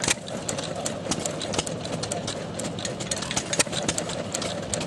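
Old tractor engine idling steadily, with many irregular sharp clicks over it.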